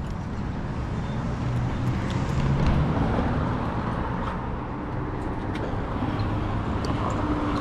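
2006 Nissan 350Z's twin-turbocharged VQ35DE V6 running as the car drives, with tyre and road noise. The hum swells a little over the first few seconds, and a steady higher tone joins about five seconds in.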